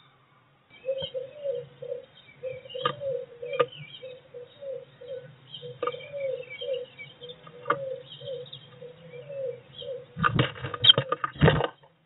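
Blue tit moving about inside a wooden nest box: a few sharp taps and clicks of claws and beak on the wood, then a loud burst of scrabbling and wing-fluttering a little before the end. Behind it, a low hum and a series of soft low notes, two or three a second.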